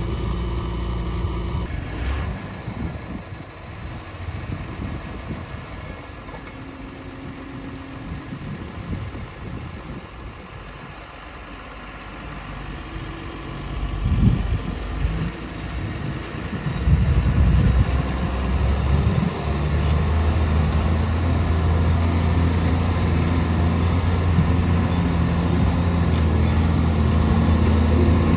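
Heavy diesel engine of a construction vehicle running: it is quieter and uneven through the middle, with loud uneven spells a little after halfway, and from about two-thirds of the way in it holds a loud, steady note.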